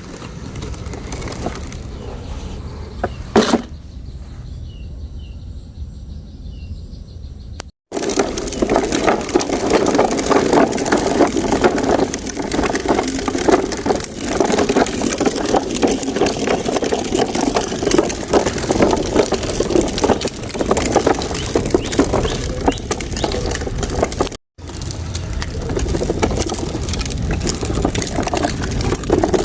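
Plastic toy truck being pushed over dirt and sand, its wheels and body rattling and crunching in a dense clatter. There is a sharp knock about three and a half seconds in, and the noise is quieter for a few seconds after it.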